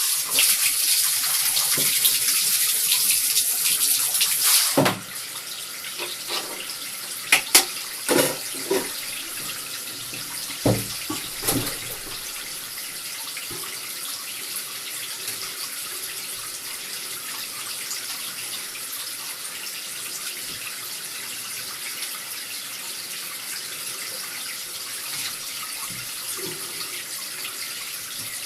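Running tap water during a cat's bath. The stream is louder for the first five seconds, then drops off suddenly to a steadier, quieter flow. A few brief knocks come in the middle.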